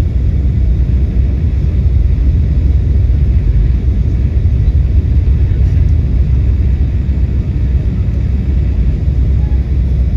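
Steady low rumble of airliner cabin noise from engines and airflow, heard from inside the passenger cabin.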